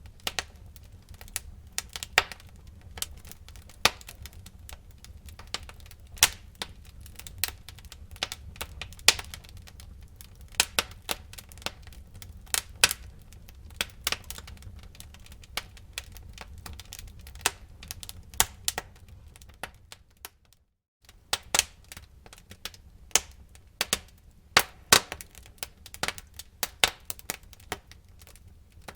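Wood fire in a fireplace crackling: irregular sharp pops and snaps, several a second, over a steady low rumble of the flames. The sound breaks off for a split second about two-thirds of the way through.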